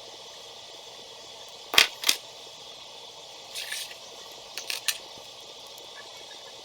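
Plastic building pieces clicking and rattling as they are handled: two sharp clicks about two seconds in, a short rattle, then three quick clicks, over a steady hiss.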